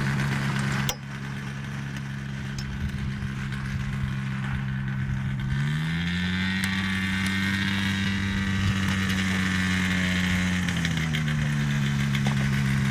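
Light aircraft's engine running steadily, its pitch rising about six seconds in as it is throttled up, then settling back down about five seconds later.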